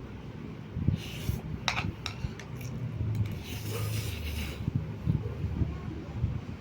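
Close-miked eating sounds: a person chewing a mouthful of noodles and rice, with wet mouth noises and a few sharp clicks of a utensil against a plate about two seconds in.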